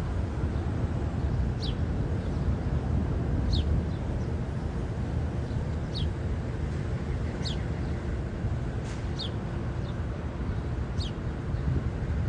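A bird gives short, high, downward-slurred calls about every two seconds, six or so in all, over the steady low rumble of city traffic.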